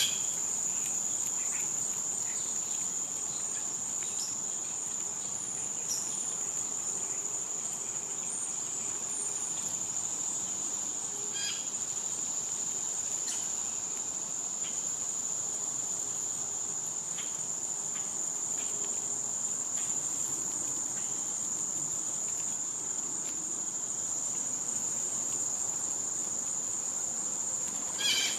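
Summer insect chorus: a steady, high-pitched drone that never lets up, with a few faint bird chirps here and there and a short bird call near the end.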